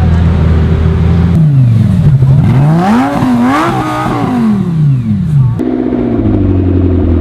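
A supercar engine revving up and down several times, its pitch rising and falling, between stretches of a steady engine drone that begin and end abruptly.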